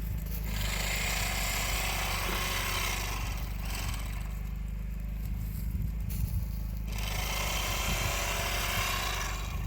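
A steady low engine hum, joined twice by a stretch of hissing, scraping noise: once for about three seconds starting half a second in, and again from about seven seconds in.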